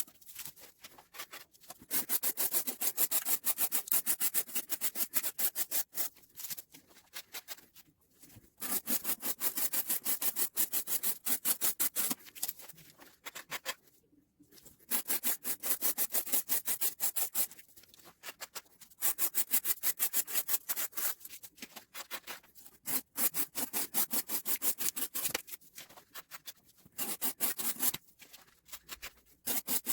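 M390 steel knife blade cutting in repeated slicing passes: runs of rapid rasping, scraping strokes lasting a few seconds each, with short pauses between them.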